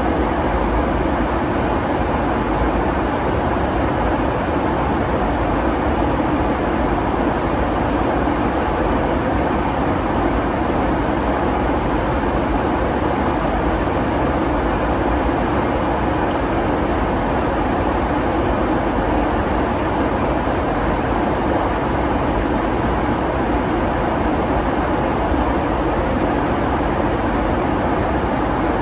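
Steady cabin noise inside a Boeing 757-200: an even, loud drone of the jet engines and rushing air.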